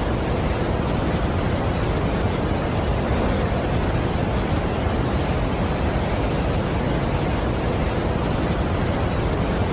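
Niagara Falls: a large waterfall's continuous, even rush of falling water, heaviest in the low rumble, with no change in level.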